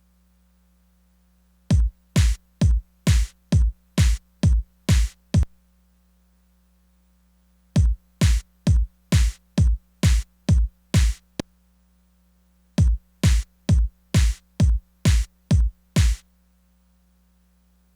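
Korg Electribe Sampler ES2 playing a steady four-on-the-floor kick-drum hit, about two a second. It comes in three runs of about eight hits each, with short silences between the runs.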